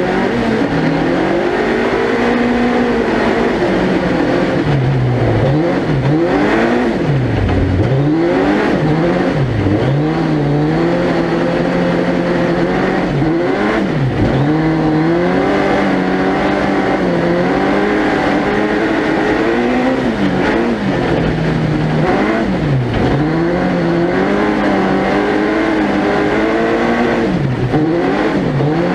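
Suzuki Hayabusa 1300cc inline-four motorcycle engine in a four-wheel-drive proto car, heard onboard, revving hard through the gears. Its pitch climbs and falls again and again, with sharp drops every few seconds as the throttle is lifted between corners.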